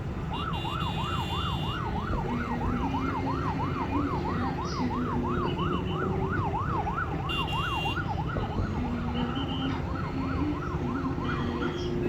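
Siren in a fast up-and-down yelp, about three swoops a second, fading somewhat near the end, over a steady noisy din.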